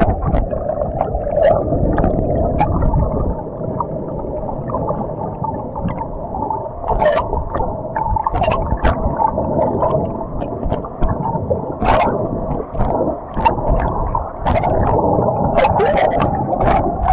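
Creek water rushing below small waterfalls, heard underwater through an action camera: a muffled, dense rumbling rush with many scattered sharp clicks and pops.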